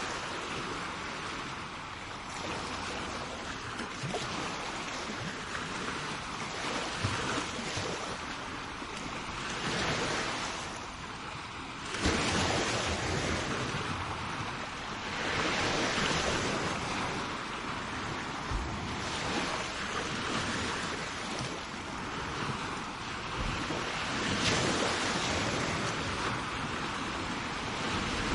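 Sea waves breaking and washing up a shore: a continuous rush of surf that swells and fades every few seconds, with the loudest break about twelve seconds in.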